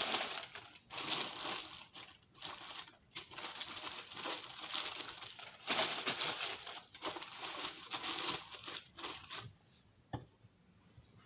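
Crinkling and rustling of something being handled, in irregular bursts with a few light clicks.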